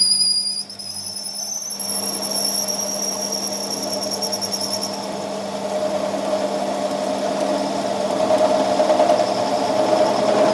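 A workshop machine running steadily. A high, fluttering whistle sounds for the first few seconds, then a steadier mid-pitched whine grows louder toward the end.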